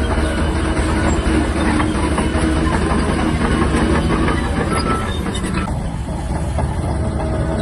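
Shantui DH17-C3 crawler bulldozer working, its diesel engine running steadily under a rapid clatter of steel track links.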